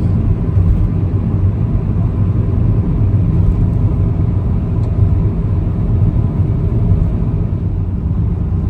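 Steady low rumble of a car on the move, road and engine noise heard inside the cabin.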